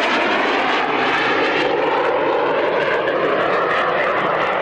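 Jet engines of aerobatic display aircraft flying past, a loud, steady rush of engine noise.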